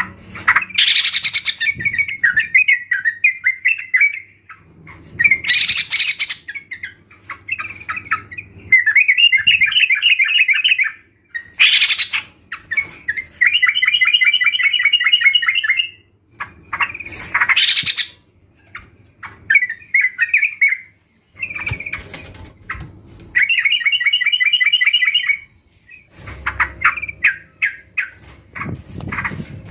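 Yellow-vented bulbuls (trucukan) calling: bubbly, chattering runs of quick notes, broken every few seconds by a louder sweeping call and short pauses. This is a lure recording used to provoke kept bulbuls into singing.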